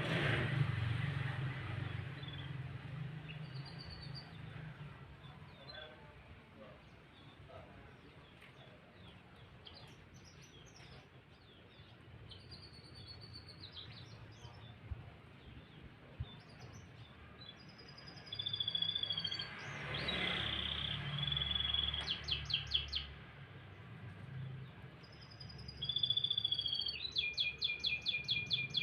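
Domestic canary singing: scattered whistled phrases that become rapid rattling trills and held notes in the second half. A low background rumble runs underneath, loudest in the first couple of seconds.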